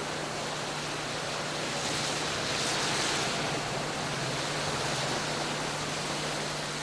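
Steady rushing noise of stormy weather, swelling briefly about three seconds in, with a faint low hum underneath.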